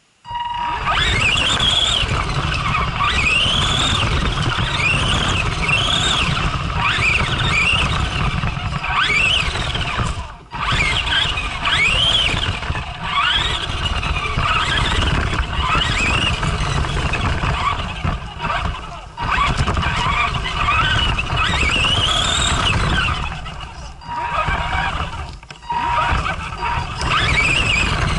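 Arrma Granite RC monster truck's electric motor whining up and down in pitch with repeated throttle bursts, over a steady rushing noise, as the truck drifts on ice. The sound drops out briefly three times.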